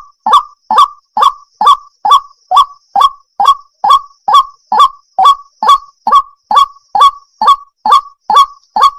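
Waterhen (jal murgi) calling: a loud, monotonous series of short harsh croaks, about two a second, each one dropping quickly in pitch.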